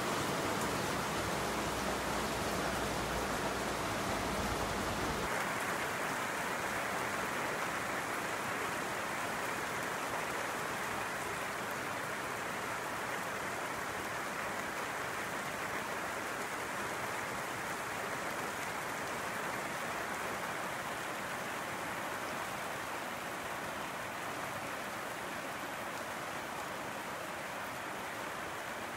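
Heavy rain pouring down, a steady dense hiss. About five seconds in, a low hum underneath stops and the rain sounds clearer.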